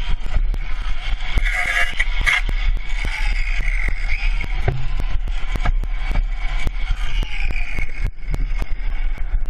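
Car cabin noise from a dash-cam recording: a steady low engine and road rumble with many short sharp clicks and rattles. A brief louder, hissier burst comes about one and a half seconds in.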